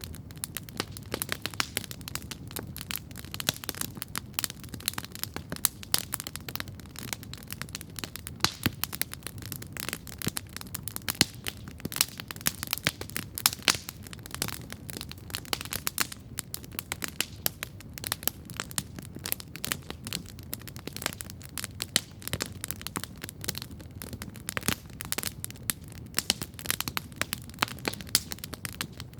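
Wood campfire crackling steadily, with dense irregular pops and snaps over the low rush of the burning fire.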